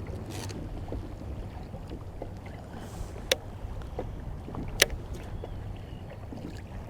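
Steady low wash of water and wind around a kayak, broken midway by two sharp clicks about a second and a half apart, the second the louder, with a few fainter ticks.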